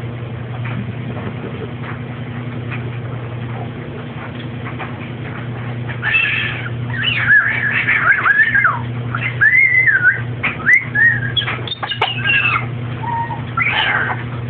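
A parrot whistling a run of gliding notes that rise and fall, starting about six seconds in, over a steady low hum.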